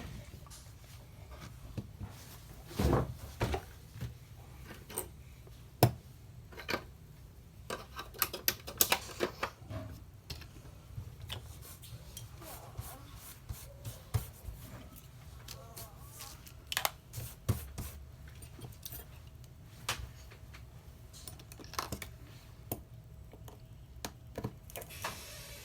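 Scattered clicks, taps and small metallic clinks of hand tools and small phone parts being handled on a work surface during smartphone disassembly, over a steady low hum.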